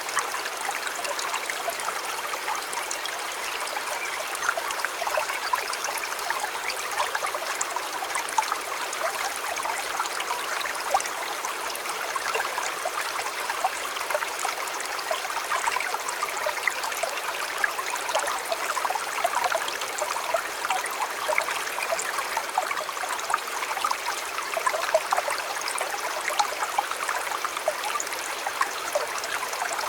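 Shallow river or stream flowing steadily over stones, a continuous babbling with many small splashes.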